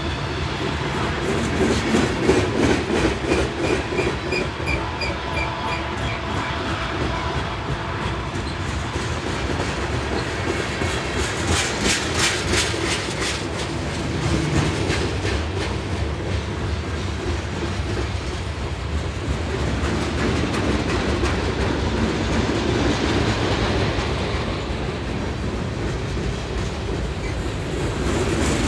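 Union Pacific manifest freight train's cars rolling past with a steady rumble of wheels on rail, and clickety-clack over rail joints that comes thickest about twelve seconds in.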